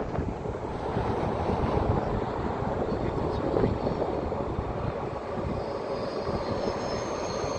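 Steady rumble of an approaching Busan Metro Line 3 train, with wind on the microphone. A faint high-pitched whine comes in over the last couple of seconds as the train draws nearer.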